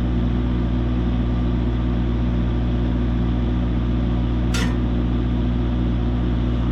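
An engine running steadily at an unchanging idle, a constant low hum. About four and a half seconds in there is one brief high-pitched squeak.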